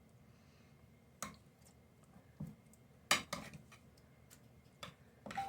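A few light knocks and clinks of kitchen utensils and food against a casserole dish as chicken pieces are pressed down into it, spaced about a second apart, the loudest about three seconds in.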